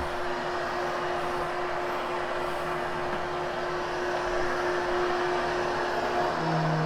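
Hoover HushTone upright vacuum cleaner running steadily on carpet, a constant motor hum over a rushing airflow noise. Near the end the hum drops to a lower pitch.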